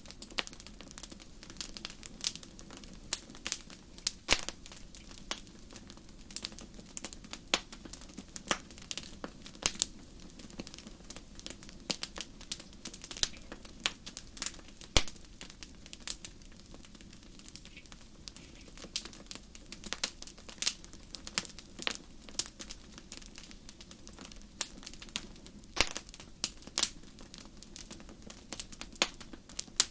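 Wood fire burning in a fireplace, crackling and popping in quick irregular snaps over a low steady rumble of flame.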